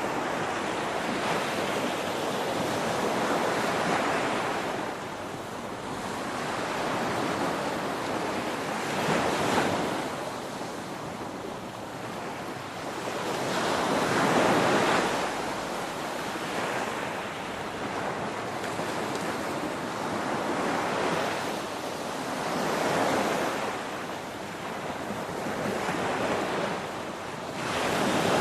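Ocean waves breaking on a shore: a continuous rush of surf that swells and eases, about six surges, one every four to five seconds.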